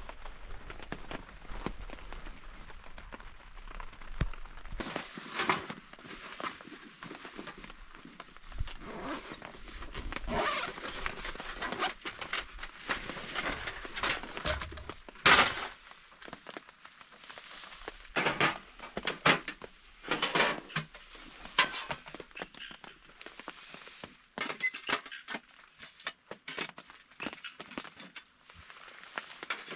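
Irregular rustling, knocks and thuds of camping gear being handled, busier after the first few seconds, with one sharp louder knock about halfway through.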